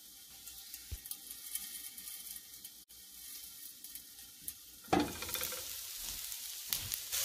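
Beijing scallion, garlic and ginger frying in oil in a covered pan: a faint sizzle with small crackles, which turns abruptly louder about five seconds in.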